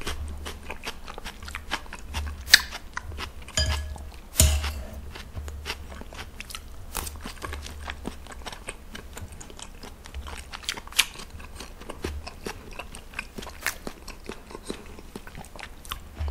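Close-miked chewing and mouth sounds of a man eating spoonfuls of gomtang (beef bone soup) with rice, made of many small scattered smacks and clicks.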